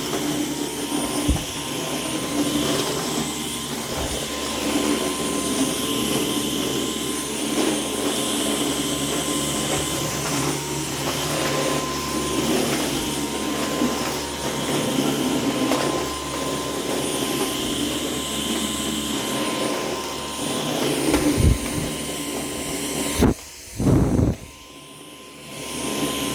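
Dyson cordless vacuum cleaner running steadily while vacuuming floors, its motor cutting out briefly near the end before starting again.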